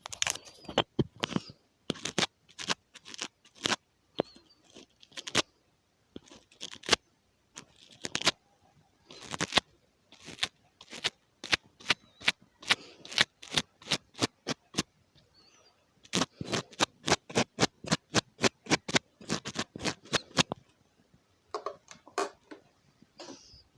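Close-up ASMR tapping and clicking on a microphone: sharp taps in irregular runs, with a faster even patter of about five taps a second in the middle.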